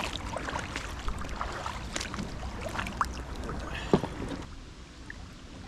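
Water sloshing and stones knocking underfoot as someone moves through a shallow, rocky river, with one sharp knock about four seconds in; after that only the quieter wash of the flowing river is left.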